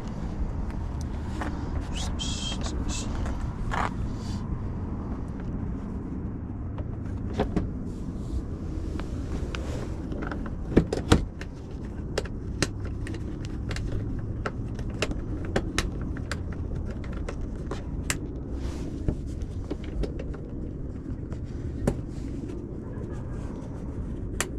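Steady low rumble of a running vehicle engine, with scattered clicks and clanks of tools and parts being handled. Two louder knocks come about eleven seconds in.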